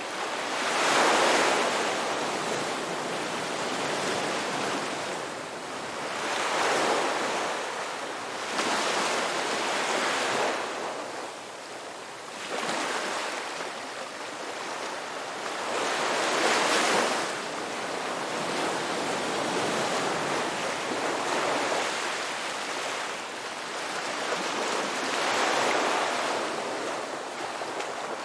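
Ocean surf: waves breaking and washing in, a steady rush of water that swells louder every four to eight seconds.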